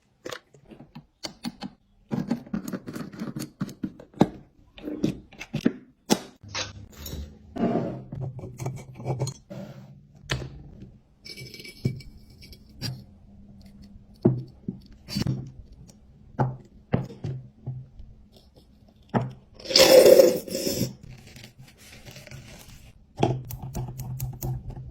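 Objects being handled in a kitchen: a run of small clicks, knocks and scrapes, with a low steady hum in parts and a louder rustling burst about twenty seconds in.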